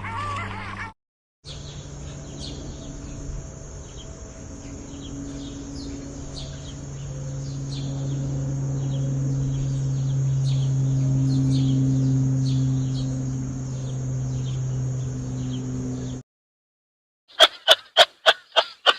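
Many short, high bird chirps repeating over a steady low hum that grows louder midway and then stops suddenly. Near the end comes a quick run of short, loud, sharp sounds, about four a second.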